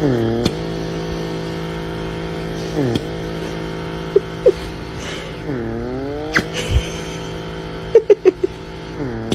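A motor running steadily, its pitch dipping and then recovering several times, with a few short sharp blips near the middle and again near the end.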